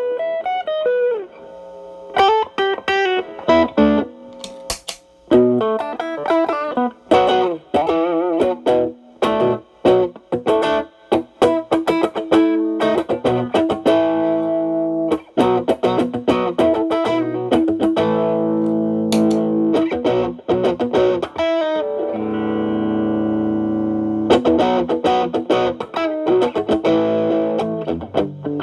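Stratocaster electric guitar played through a Xotic AC Plus overdrive pedal into a Marshall Valvestate amp, lightly overdriven: quick improvised picked phrases, with a chord left ringing for about two seconds near the end before the runs resume.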